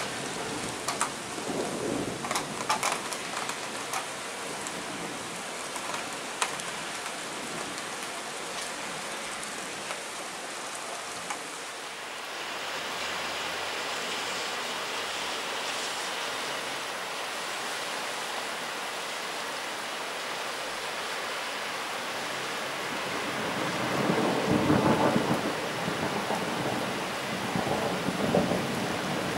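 Steady rain hissing down, with a rumble of thunder rolling in about three-quarters of the way through and a further rumble near the end.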